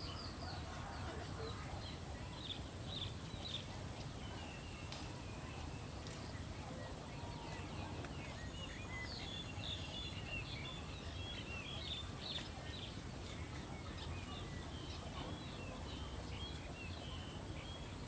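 Birds chirping in many short, high calls, scattered and overlapping, over a steady high pulsing buzz and a low background rumble.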